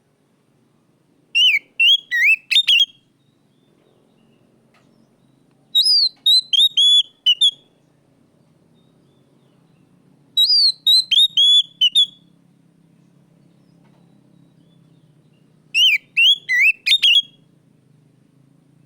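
Oriental magpie-robin singing: four loud whistled phrases of several quick notes each, spaced about four to five seconds apart, some notes dipping and rising and others sliding down.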